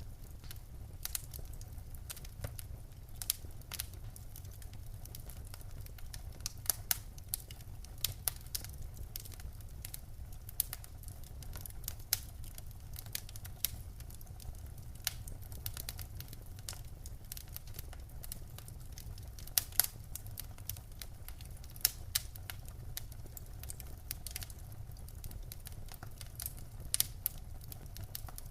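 Fire crackling in a fireplace: irregular sharp pops and snaps, a few louder than the rest, over a steady low rumble.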